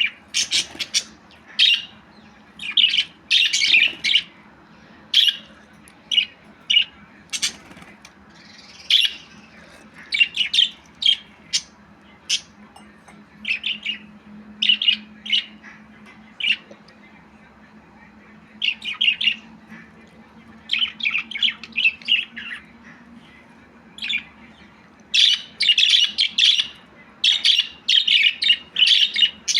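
Budgerigar chirping and squawking in short, sharp calls, coming in clusters with brief pauses and densest near the end, over a faint steady background hum.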